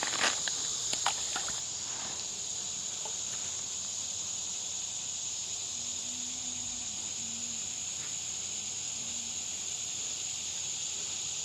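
Steady high-pitched drone of a summer insect chorus, with a few sharp clicks and knocks in the first second or two.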